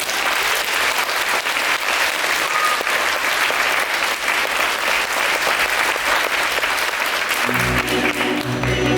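Audience applauding, with orchestral music starting up about a second and a half before the end.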